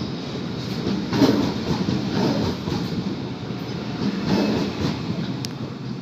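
A train rolling along the track, with a steady rumble and wheels clacking in a few louder surges. It fades toward the end.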